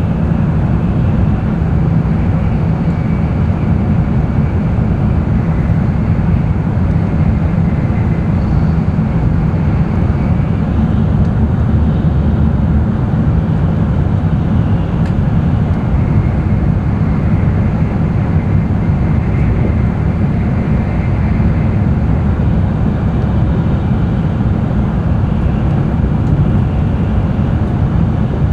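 Running noise of an N700-series Tokaido Shinkansen heard inside the passenger cabin: a steady low rumble with a faint high whine that comes and goes.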